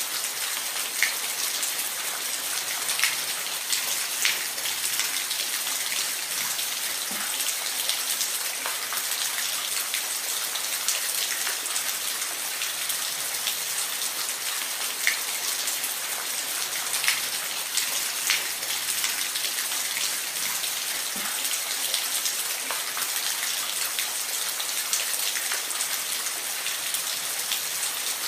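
Falling water: a steady, even hiss with sharp drip-like ticks scattered through it.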